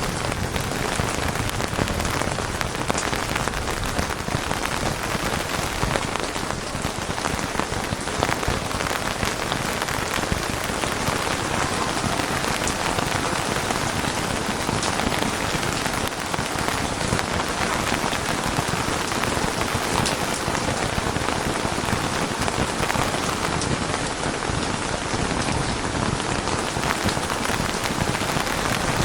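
Steady heavy rain falling on a surface: a dense, even hiss of many raindrops.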